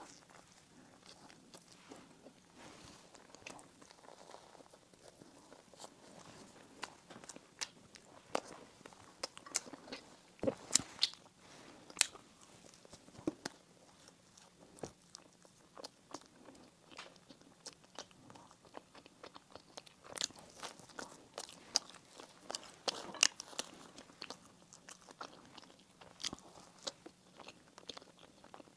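A person chewing and biting into bread and pastries, close to the microphone. Irregular sharp crunches and mouth clicks come throughout, thickest about a third of the way in and again around two-thirds through.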